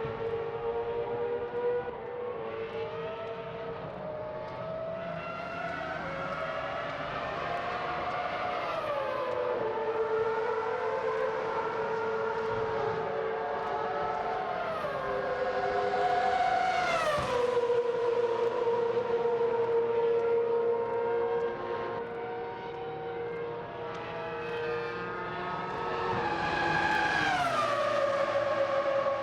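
Ferrari V10 Formula 1 cars running on the circuit: several high-pitched engine notes at once, rising and falling as they accelerate and change gear. The pitch drops sharply three times, about a third of the way in, just past the middle and near the end, as cars go by.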